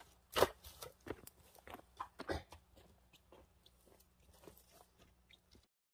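Irregular knocks and crunching, with two louder knocks about two seconds apart and fainter clicks between; the sound cuts off near the end.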